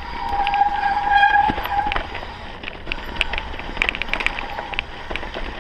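Mountain bike on a downhill run: its brakes squeal in a steady high tone for about two seconds, then the bike rattles with quick clicks and knocks over rough ground, over a low rumble.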